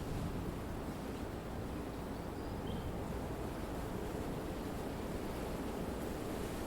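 Wind blowing through trees: a steady, even rush that neither builds nor drops away.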